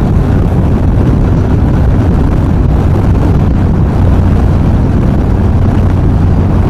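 Steady wind rush over the rider's helmet and microphone, with the even drone of a Yamaha XV950R's air-cooled V-twin underneath, cruising at about 90 km/h. Wind gets in under the helmet's chin, and the rider finds the noise a nuisance on his recordings.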